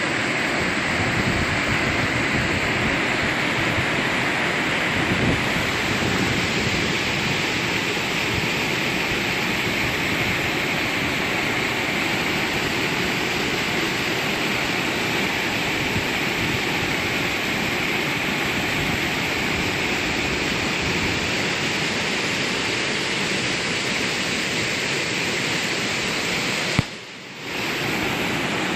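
Rain falling steadily as a dense, even hiss, with a brief dropout near the end.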